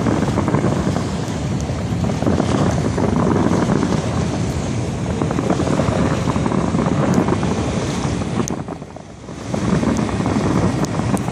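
Wind buffeting the microphone aboard a boat: a dense, steady rush that drops away briefly about eight and a half seconds in.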